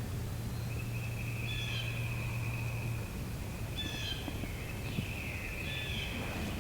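Songbirds singing short, repeated high phrases about every two seconds over a steady high-pitched buzz, with a low hum underneath that stops about three seconds in.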